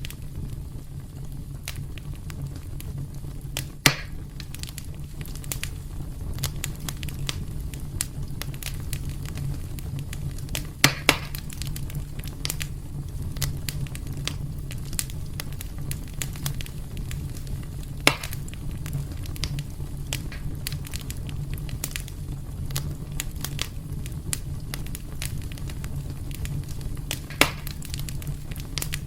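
Wood fire burning in a fireplace, crackling steadily over a low rumble of flame, with a few louder pops and snaps about 4, 11, 18 and 27 seconds in.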